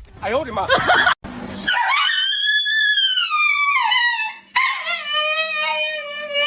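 A dog howling: two long drawn-out howls. The first rises and falls in pitch, and the second holds steadier, after a brief burst of noise at the start.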